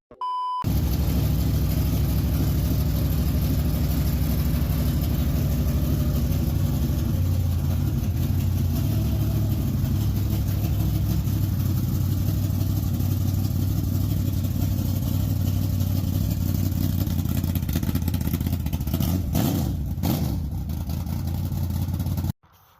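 A vehicle engine running loudly and steadily, its low drone shifting a little in pitch, cut off suddenly near the end. A short high beep comes just before it starts.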